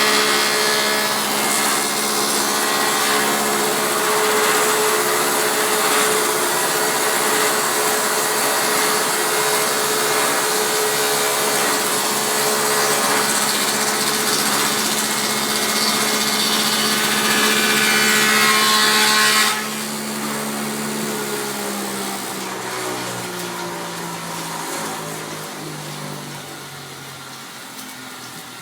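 Taiga OS electric log-rounding machine milling a log: a steady motor hum under the harsh noise of the cutting head biting into wood. About twenty seconds in the cutting noise stops abruptly, and the motor winds down with falling pitch.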